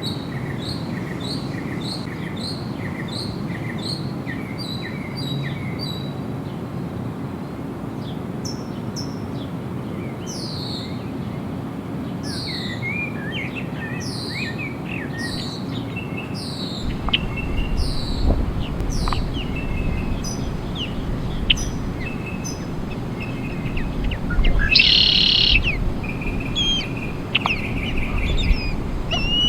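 Wild birds singing and chirping: first a quick series of short repeated notes, then a run of high, downward-sliding chirps. About seventeen seconds in, a low steady rumble joins them, and a louder harsh call stands out for about a second near the end.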